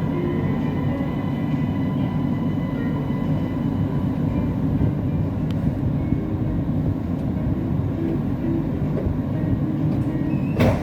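Siemens Inspiro metro train running between stations, heard from inside the car: a steady low rumble of wheels on rail with a faint steady whine above it. A sharp click sounds near the end.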